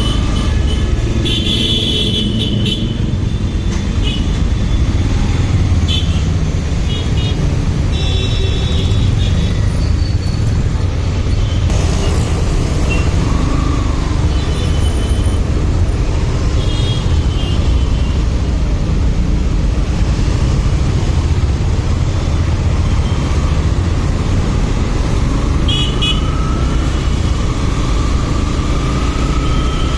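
Motorcycle ride through road traffic: a steady rumble of engine and wind noise, with short vehicle horn toots sounding several times.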